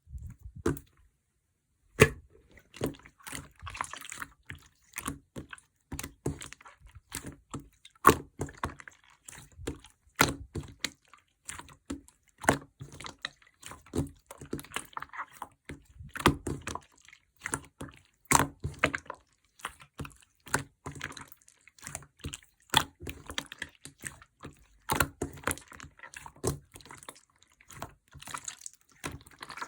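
Slime being squeezed, stretched and pressed by hand: a steady run of wet clicks and pops, about one to three a second, with soft crackling between them.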